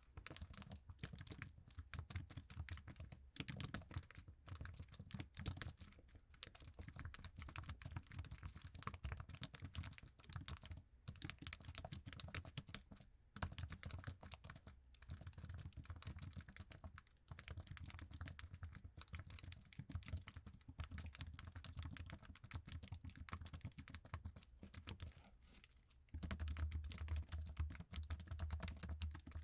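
Continuous quick typing on an iMac's standard Apple keyboard: dense, rapid key clicks with a few brief pauses.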